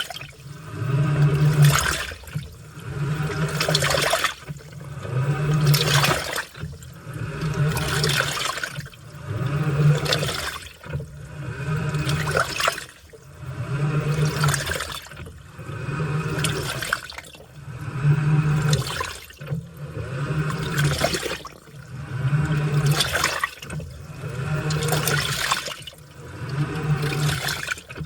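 Washing machine in its wash cycle: the motor hums as it turns the wash one way and then the other, and the water and laundry slosh and splash in surges about every two seconds.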